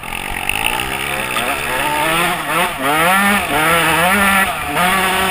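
Dirt bike engine revving, its pitch climbing and falling back several times.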